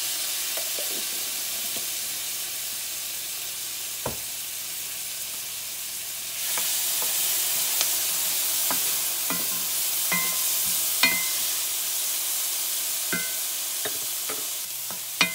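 Onions, sweet peppers and minced garlic sizzling in butter in a cast-iron skillet and being stirred with a wooden spoon. The sizzle gets louder about six seconds in, with scattered taps and knocks of the spoon.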